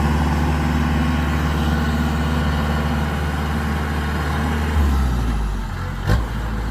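Kubota DC-105X combine harvester's diesel engine running steadily. Its pitch drops a little about five seconds in, and a short sharp knock follows about a second later.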